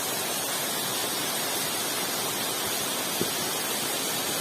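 Waterfall rushing steadily, a dense even hiss of falling water, with a faint knock about three seconds in.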